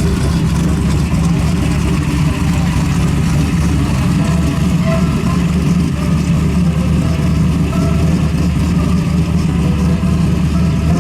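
A car engine running loud and steady with a deep rumble, idling with light revving.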